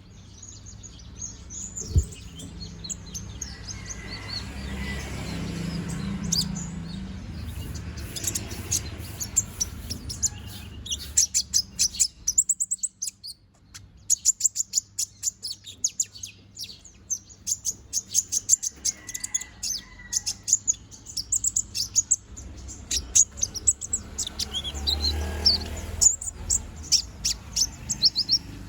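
A konin (kolibri ninja sunbird), bald and regrowing its feathers, singing hard in long runs of rapid, high-pitched chirps and trills, pausing briefly about halfway through.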